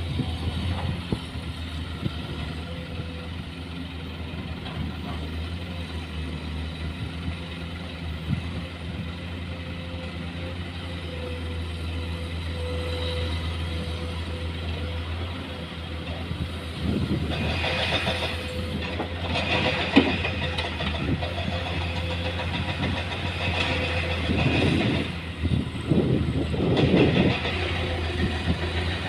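Heavy diesel engine running steadily at a low drone. In the second half, louder mechanical noise comes in with irregular surges.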